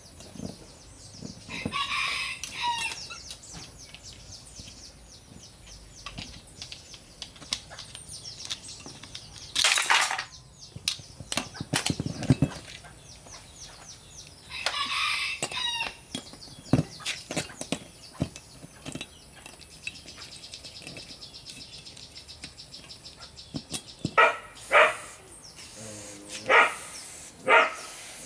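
Chickens in the background: a rooster crowing twice and a run of short clucking calls near the end. Scattered small clinks and a few louder knocks come from tool work on the truck.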